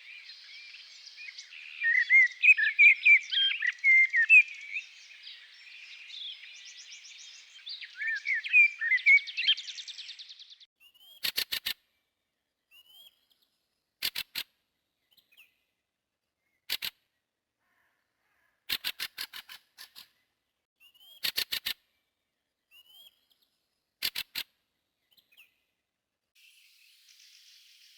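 Several songbirds singing, with fast, overlapping chirps and warbles. About ten seconds in the background drops away, leaving short bursts of rapid clicks every few seconds and an occasional faint single chirp, before chirping resumes near the end.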